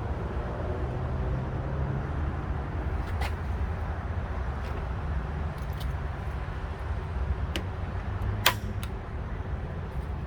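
Hand work fitting a radiator's upper coolant hose: a few light clicks and one sharper click near the end, over a steady low hum.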